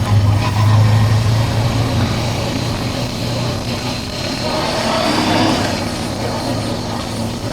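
Motorcycle engine running steadily while riding, with road and wind noise. The drone is strongest in the first couple of seconds, then eases off.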